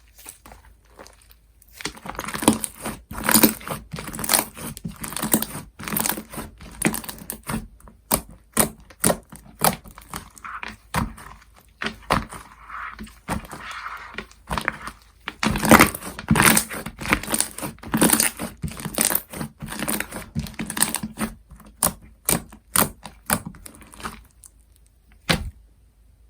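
Hands squishing and pressing clay-mixed slime, making a rapid, irregular run of sticky pops and clicks with crinkly stretching in between. It starts about two seconds in and stops just before the end.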